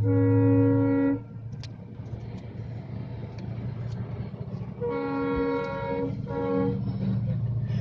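Train horn sounding over the steady low rumble of a train moving off: one blast at the start, then a longer blast about five seconds in, followed at once by a short one.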